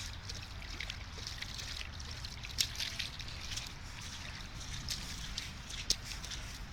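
Small irregular splashes and patters of shallow rain-puddle water, as a toddler steps and splashes in the puddles, with a few sharper splashes.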